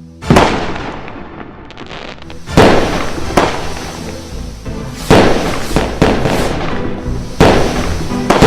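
Firework explosions: about half a dozen sharp bangs a second or two apart, each trailing off in a crackle.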